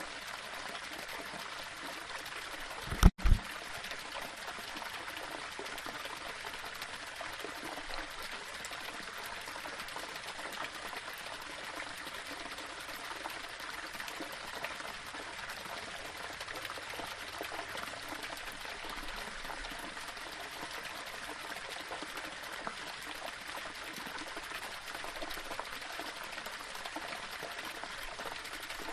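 Small waterfall: water running steadily over rocks. About three seconds in, a brief, loud low double thump cuts across it.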